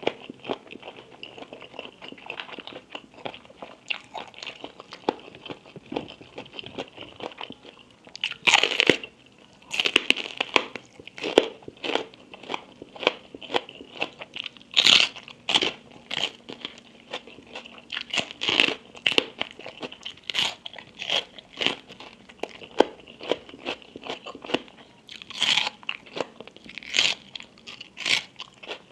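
Close-miked eating: crunchy bites and chewing of spicy Thai papaya-salad food. Quieter chewing at first, then loud sharp crunches come thick and fast from about eight seconds in.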